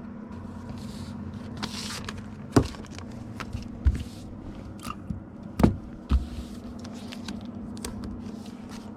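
Plastic comic book bags rustling and crinkling as comics and cardboard backing boards are slid in, with several sharp taps and knocks on the table, over a steady low hum.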